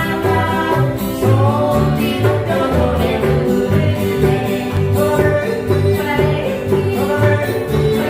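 A song sung over plucked-string accompaniment with a steady, regular bass pulse.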